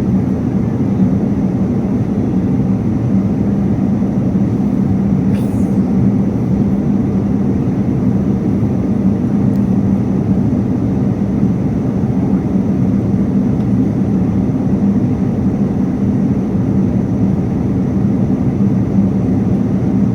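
Airliner cabin noise in flight: a steady, even rush of engine and airflow noise, deep and unchanging, with a constant low hum underneath.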